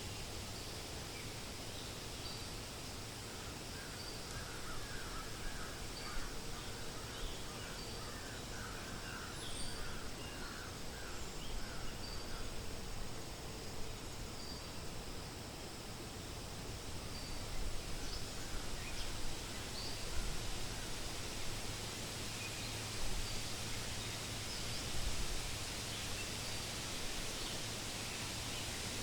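Wind rustling steadily through forest leaves, with birds calling over it: a run of short repeated notes, about one or two a second, from a few seconds in to about the middle, and scattered high chirps throughout.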